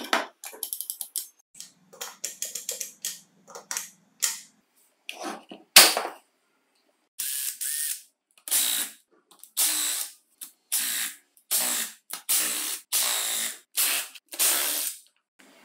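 Work on a cordless reciprocating saw being taken apart: quick clicks and rattles of small parts, then a run of about nine short bursts of hissing mechanical noise with sharp gaps between them.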